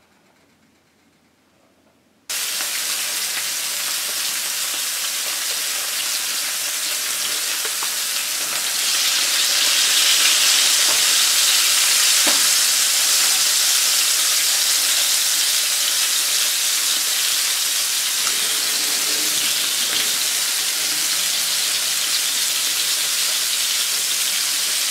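Near silence for about two seconds, then salmon fillets sizzling in hot oil in a nonstick frying pan, starting suddenly as a steady hiss that is loudest around ten seconds in.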